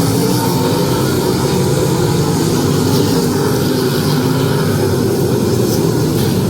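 Sprint car engines running hard at a steady, held pitch around a dirt oval.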